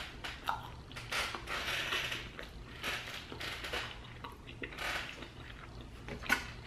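A person chewing a mouthful of fries dipped in cheese sauce close to the microphone, in uneven chews with a sharper click near the end. A faint steady hum sits underneath.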